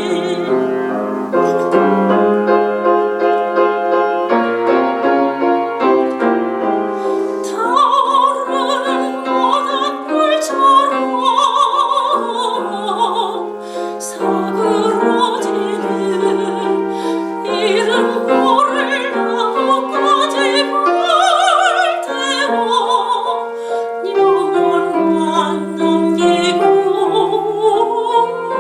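Soprano singing a Korean art song (gagok) in operatic style with wide vibrato, accompanied by piano. The piano plays alone for the first several seconds before the voice comes in.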